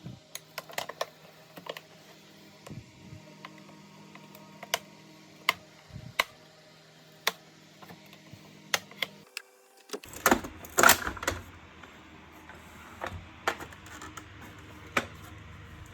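Scattered sharp clicks and taps of small plastic parts being handled, with a denser, louder clatter about ten to eleven seconds in. A low steady hum runs beneath for the first nine seconds and then stops.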